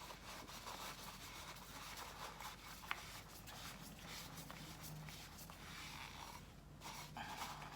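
Faint rubbing of a rag wiping leftover oil out of the oil filter housing, with a single small click about three seconds in.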